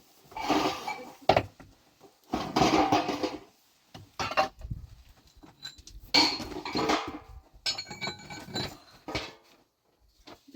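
Dishes, pots and utensils clinking and clattering in several separate bursts with short pauses between them.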